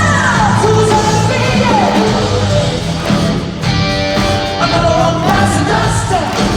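Live rock band playing in a large arena: a driving bass line and drums with singing, and a few notes sliding down in pitch.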